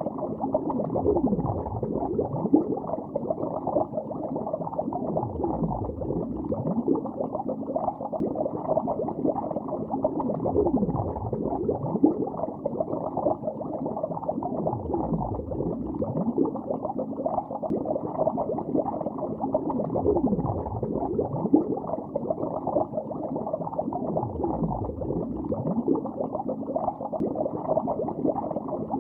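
Bubbles rising and gurgling underwater, heard through a hydrophone-like muffled pickup, with a continuous bubbling texture and a deeper falling swoop every few seconds.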